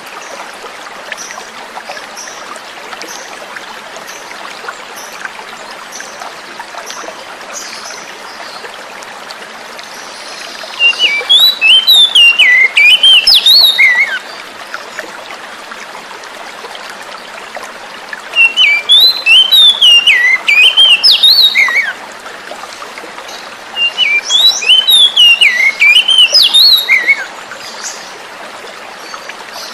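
Oriental magpie-robin (kacer) song: three loud bursts of quick, jumping whistled phrases, each about three seconds long, over a steady trickle of running water. Faint high chirps sound in the first few seconds before the first burst.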